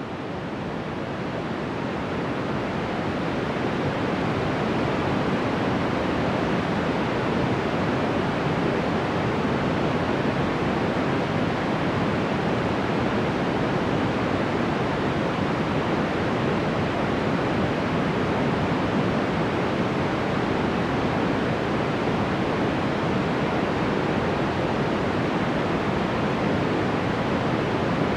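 Steady, even rushing noise of a tropical rainforest ambience recording, fading up over the first few seconds and then holding level, with no bird calls or other distinct sounds standing out.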